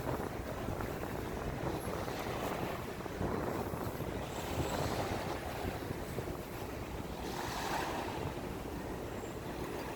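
Gusty wind buffeting the microphone, a steady rushing noise that swells and eases.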